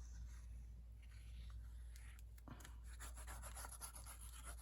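Faint rubbing and rustling of paper being handled and smoothed on a journal page, growing a little busier about halfway through.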